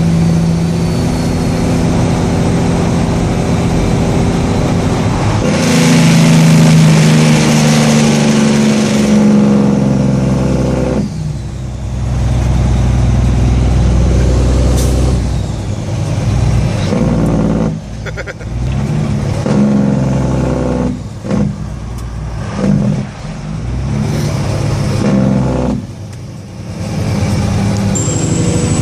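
Kenworth W900L tractor unit's diesel engine running, with a loud stretch of compression-release engine braking (Jake brake) a few seconds in as the engine note falls steadily. Later the engine note drops away and picks up again several times.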